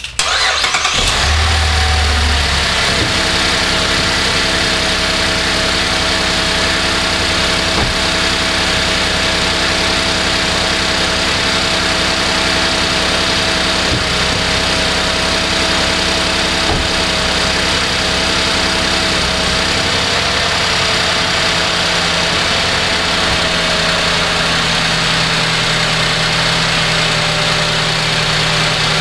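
2012 Cadillac SRX's 3.6-litre V6 starting from cold and catching at once, flaring briefly in the first couple of seconds, then settling into a steady cold idle with a faint whine over it. The idle note shifts slightly about twenty seconds in.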